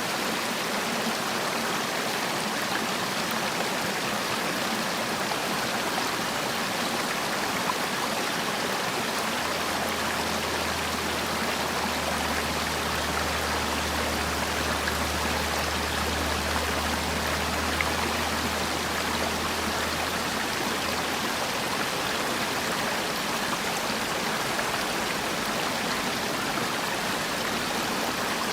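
Mountain stream water rushing and burbling over rocks in a steady, even flow. A low rumble sits under it for about the middle third.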